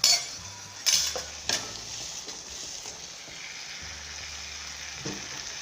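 Onion-tomato masala with ground paste sizzling in a kadai, while a spoon knocks against the pan three times in the first second and a half as it is stirred; after that comes a steady sizzle.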